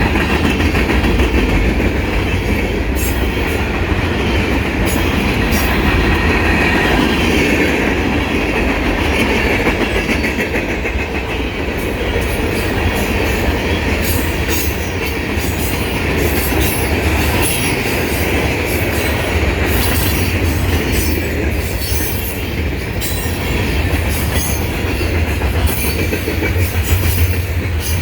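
Norfolk Southern freight train passing close by at speed: a steady loud rumble with wheels clacking rapidly over the rail joints.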